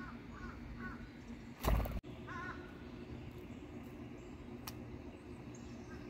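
Short harsh bird calls, cawing in sound: three quick ones at the start and a stronger one a little after two seconds. A loud brief rush of noise comes just before two seconds, over a faint steady hum.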